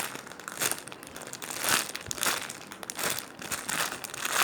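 Plastic crinkling and rustling as a foam squishy toy is handled and squeezed, coming and going several times.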